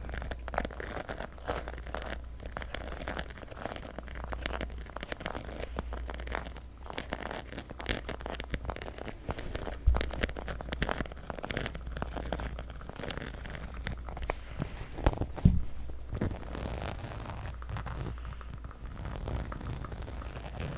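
Fingernails tapping and scratching on a leather purse: a dense run of small clicks and crinkly scrapes, with two louder knocks about ten and fifteen seconds in.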